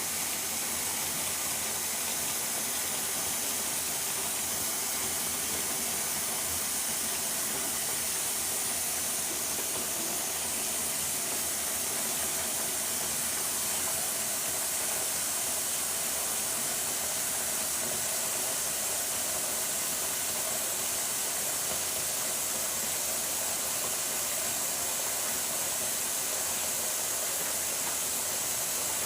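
Water running in a steady stream, an even hiss with no breaks, as when a sponge is rinsed under the tap.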